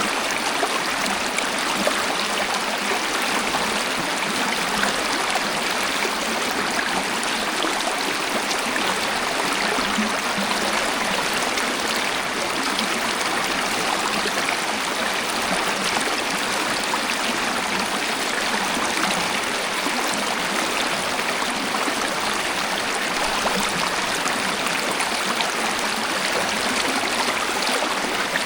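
Waterfall: water falling and flowing in a steady, even rush with little deep rumble.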